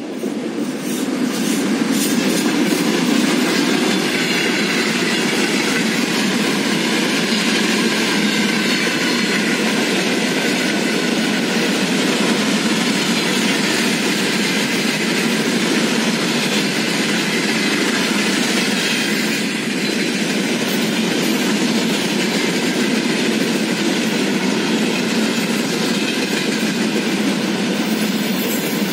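A Siemens ER20CF diesel-electric locomotive and its freight train passing close by: the sound swells over the first couple of seconds as the locomotive comes past, then settles into the steady, loud noise of tank and hopper wagons rolling by on the rails.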